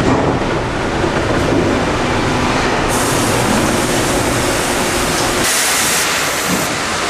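Sawmill line machinery for cutting pallet boards running loudly, a steady rumble and clatter. A high hiss joins about three seconds in, and the low rumble drops away for a moment near the end.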